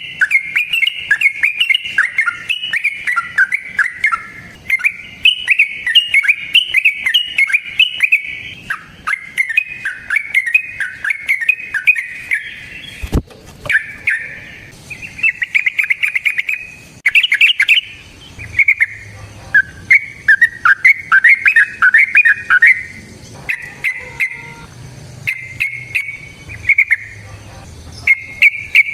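Yellow-vented bulbul (trucukan) singing long, rapid runs of bubbling, chattering phrases almost without pause, with short breaks between bouts. A single sharp click about thirteen seconds in.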